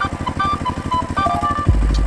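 A small engine chugging at a fast, even beat under a simple jingle-like tune of short notes. Near the end a deep low thump sets in.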